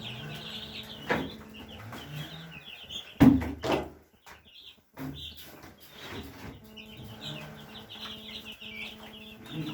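Broiler chicks peeping continuously. Over them come knocks and scraping from a homemade scraper pulled along the polycarbonate droppings trays under their cage, the loudest about three seconds in.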